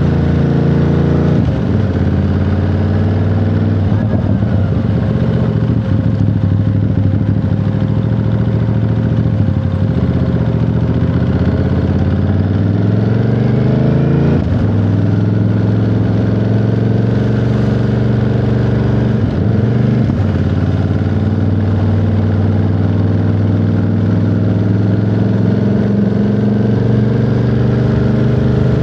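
Ducati Monster 937's 937 cc Testastretta V-twin engine running under way, its revs climbing steadily and then dropping sharply about halfway through, as at an upshift, with another drop in pitch a few seconds later.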